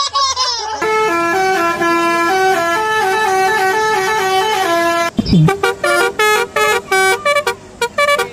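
Basuri telolet bus horn playing its multi-note tune: held chords stepping up and down in pitch, then a run of short clipped toots in the second half.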